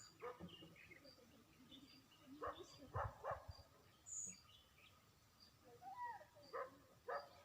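Faint outdoor animal calls: birds chirping, with a thin high chirp repeating about twice a second and several short louder calls scattered through, one of them falling in pitch about six seconds in.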